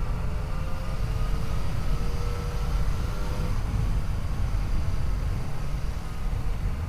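Yamaha FJ-09 motorcycle's three-cylinder engine running at a fairly steady road speed, its note shifting slightly in pitch, under a heavy low rumble of wind on the microphone.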